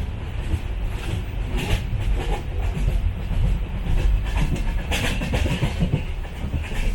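Passenger train running along the track, heard from inside a second-class coach: a steady low rumble with scattered rattles and knocks from the carriage.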